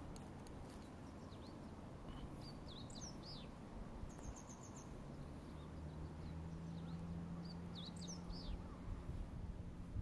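A songbird singing: two short phrases of quick, up-and-down whistled notes about five seconds apart, over a low outdoor rumble. A faint steady low hum comes in about halfway through.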